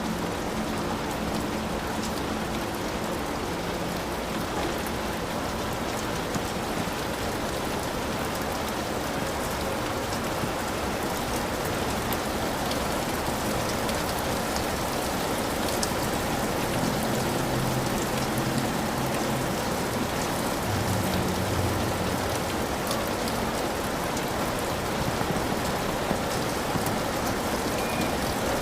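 Heavy rain falling steadily on a hut, a dense unbroken hiss of drops that barely changes in level.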